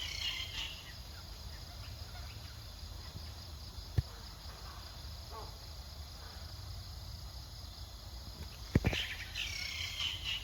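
Outdoor ambience with a steady low rumble and high, quick chirping calls near the start and again near the end. There is a sharp click about four seconds in and two loud knocks just before nine seconds.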